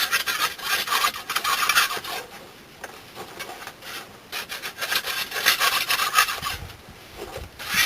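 A hand scraper rasping over fired kiln bricks in repeated strokes, cleaning ash and residue off them. The strokes come in several bunches with short pauses between.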